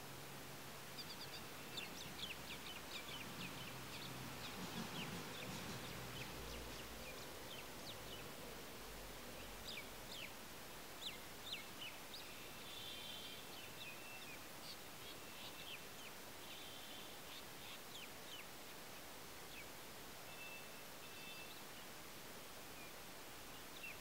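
Faint bird calls over a steady hiss: a quick run of short, sharp chirps in the first few seconds, then scattered chirps and a few brief held notes.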